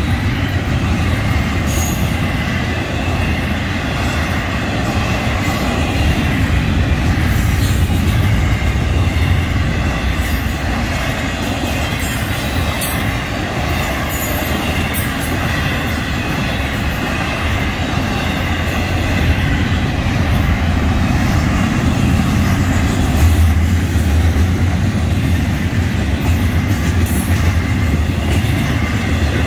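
Freight cars of a long intermodal train, loaded with double-stacked containers and trailers, rolling steadily past at a grade crossing: a continuous rumble of steel wheels on rail.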